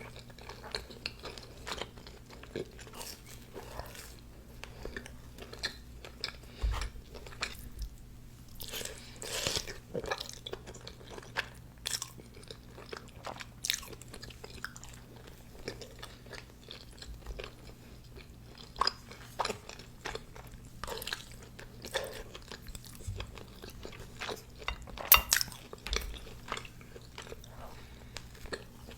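Close-up eating: bites and chewing with crunches and wet crackles, irregular throughout, with one sharp crunch near the end the loudest.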